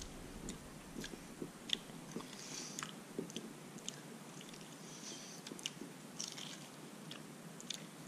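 A person chewing boiled polar bear paw meat, with irregular small clicks and smacks of the mouth.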